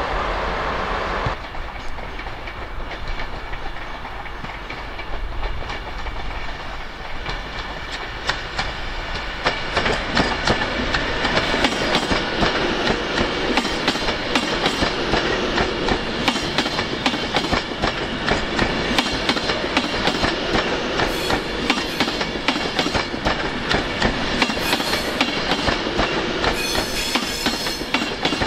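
A train running along the track past the listener, its wheels clattering over the rails, growing louder about ten seconds in.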